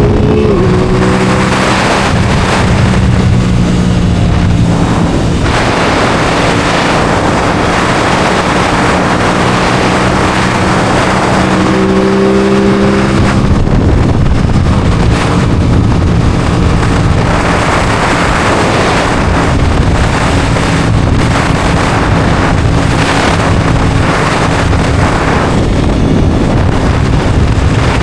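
Aprilia Tuono 660 Factory's parallel-twin engine running under way at fairly steady revs, with a short rise in revs about twelve seconds in. A broad rush of wind noise grows over the engine in the second half.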